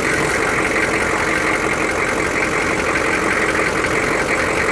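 GM 6.5-litre turbo-diesel V8 idling steadily with a fast, even diesel clatter, running smooth. The engine is still cold, freshly started after sitting for about six years.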